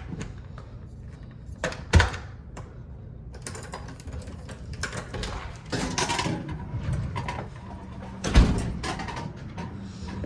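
Garbage truck picking up and emptying a wheeled trash can, with loud bangs about two seconds in and again near the end and a run of clattering between them. Underneath is the steady hum of the running air conditioner.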